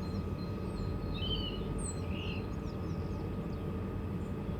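Small birds chirping a few times in the first half, over a steady low rumble of background noise and a faint steady hum.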